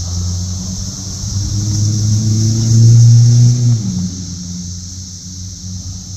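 A motor vehicle passing close by, its engine rising in pitch as it accelerates, loudest about three seconds in and easing off soon after. Under it runs the steady high-pitched buzzing chorus of periodical cicadas.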